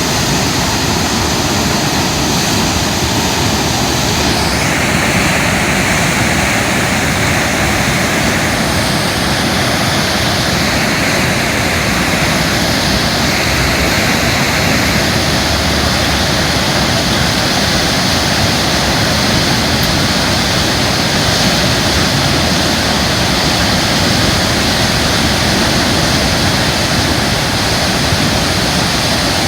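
Loud, steady rush of the flood-swollen Katsura River after heavy rain.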